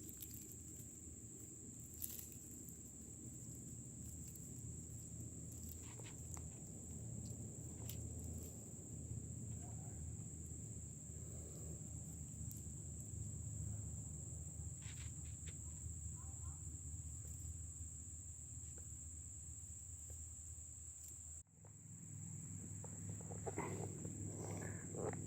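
Insects droning in one steady, high-pitched trill that is broken once near the end, over low rumbling handling noise and scattered faint clicks.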